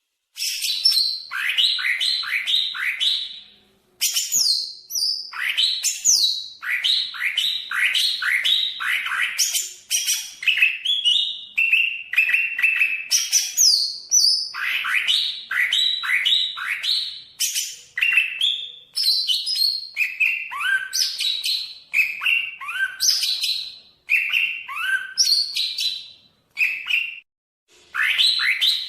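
Cucak ijo (green leafbird) singing continuously in a fast, varied run of loud whistled and chattering notes, many sweeping steeply down in pitch, with brief pauses about four seconds in and again near the end.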